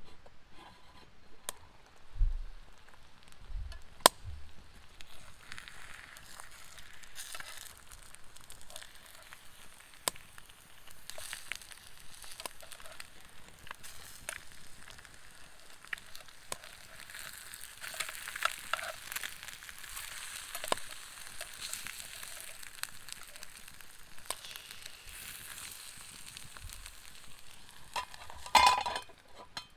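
Steady sizzling and crackling at a stone-hearth campfire, with scattered sharp pops. Two low thumps come a few seconds in, and a louder clatter comes near the end.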